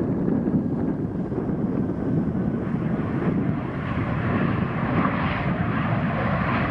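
An airplane's engines growing louder as the plane comes closer, with a higher whine building in the second half, over wind buffeting the microphone.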